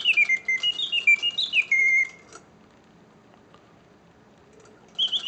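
Antique Karl Griesbaum singing bird cage whistling its bellows-and-slide-whistle birdsong in short stepped and sliding notes, then stopping about two seconds in and staying quiet for about three seconds before the song starts again near the end. The pause is the automaton's pause feature, which works only when the bellows are in excellent condition.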